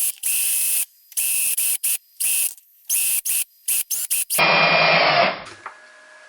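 A small power tool run in short on-off bursts, about eight of them, while small metal parts are cleaned. A longer, fuller burst follows about four and a half seconds in.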